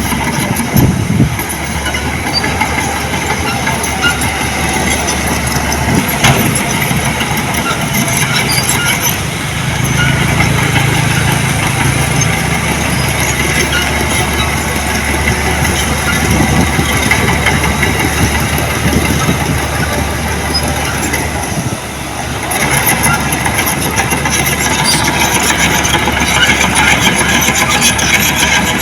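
Diesel engine of heavy earthmoving equipment running steadily, with a brief drop in level about three-quarters of the way through.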